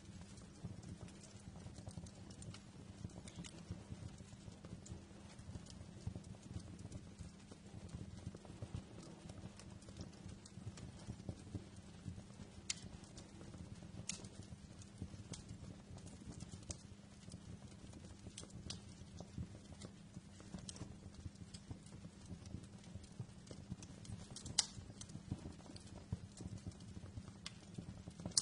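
Wood fire crackling in a fireplace: a steady low flutter of flames full of small crackles, with occasional sharp pops, the loudest about 25 seconds in.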